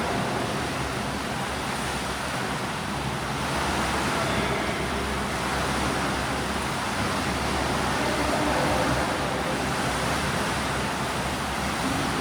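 Swimming pool noise: a steady wash of water splashing from swimmers doing breaststroke drills.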